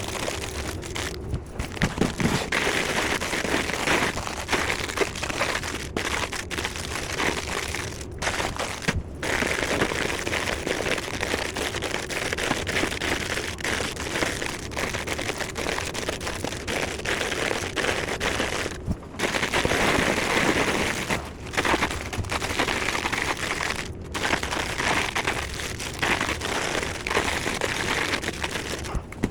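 Plastic snack and chip bags crinkling continuously as they are handled and loaded into a vending machine.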